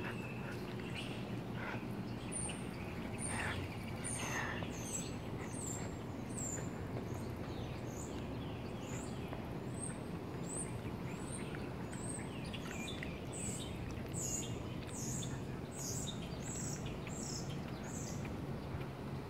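A bird chirping over and over, short high chirps about two a second, over a steady low background hum.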